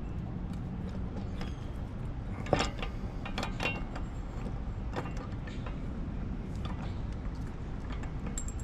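Scattered small metal clicks and clinks of hand work on the anchor swivel and its mousing wire, over a steady low rumble; the sharpest knocks come about two and a half seconds in and a second later.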